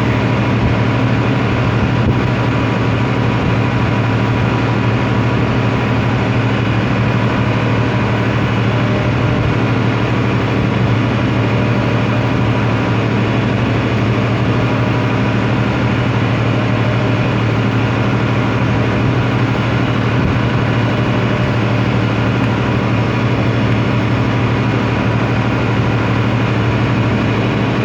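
A steady low machine hum with a strong drone, running unchanged throughout.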